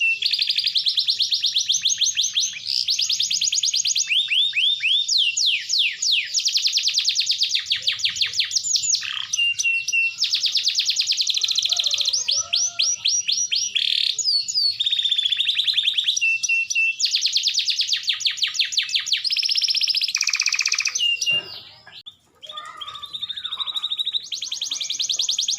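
Domestic canary singing a long, unbroken song of rapid trills and rolls, high-pitched and loud, with a brief pause about 22 seconds in.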